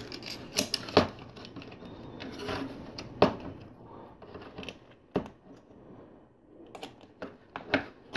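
LEGO plastic pieces being handled and pressed together, giving scattered sharp clicks, as a tile is fitted onto a door part.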